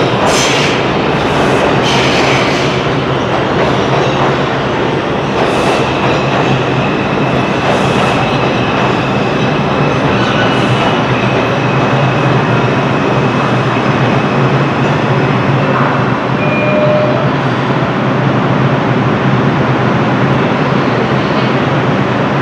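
Train running on the rails: a loud, steady rumble of wheels and cars, with a few clicks in the first seconds and a faint high squeal from the wheels for several seconds in the middle.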